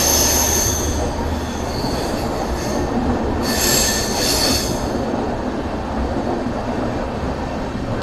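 Passenger train running through a tunnel with a steady rumble of wheels on rail. High-pitched wheel squeal rises over it in the first second and again from about three and a half to nearly five seconds in.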